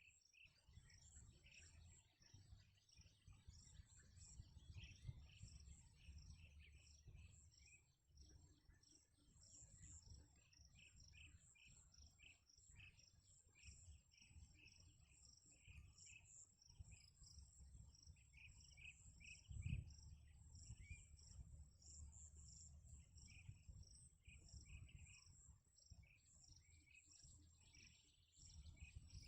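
Faint outdoor ambience: insects trilling steadily in quick pulses, with many short chirps and a low rumble underneath. One soft thump stands out about twenty seconds in.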